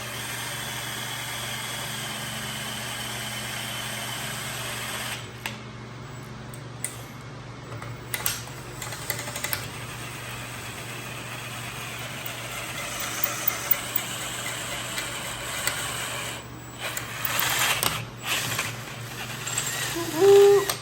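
Electric drill boring an angled hole through a steel bracket. The motor runs steadily for about the first five seconds, then more unevenly and quieter, with scattered clicks and knocks.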